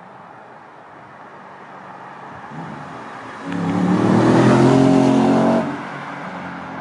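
Audi S5 with a custom Milltek exhaust accelerating at full throttle past the listener, with a whine over the exhaust note. It builds from about two seconds in, is loudest for about two seconds, then drops away suddenly as the car goes by.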